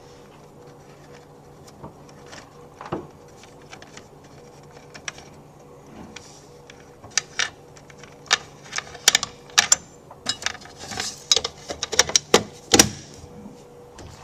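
Sharp clicks and small metallic clatters from hand work on the freezer unit's parts and tools, sparse at first, then coming quickly in the second half, over a steady hum of refrigeration equipment.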